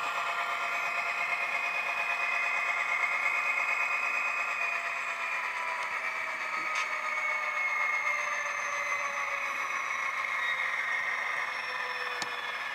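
Tsunami sound decoder in a Proto 2000 GP20 model locomotive playing its EMD 567D diesel engine sound through the model's small speaker, the pitch slowly falling as the engine winds down. A couple of faint clicks are heard.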